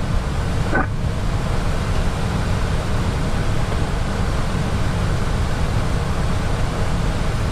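Steady cockpit noise of an Airbus A320 in flight on approach: a continuous rush of air with a deep rumble underneath, and a brief chirp just under a second in.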